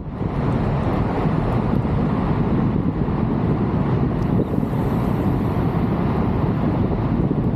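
Steady, loud rushing wind noise with a low rumble, buffeting the microphone.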